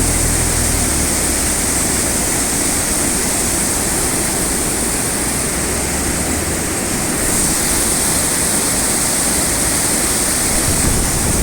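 Loud, steady rush of a rain-swollen stream or waterfall pouring over rocks.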